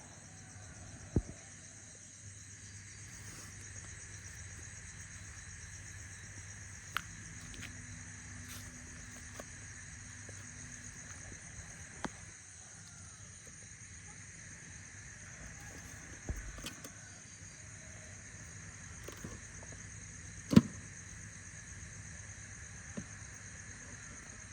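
Steady, high-pitched insect chorus, with a few sharp clicks or knocks scattered through it, the loudest one near the end.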